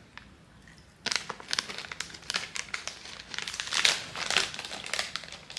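Plastic snack bag of caramel corn crinkling as it is handled, a dense, irregular crackle starting about a second in.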